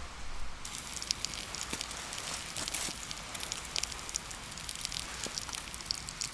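Campfire crackling: a steady hiss with many small, irregular sharp pops, growing fuller about a second in.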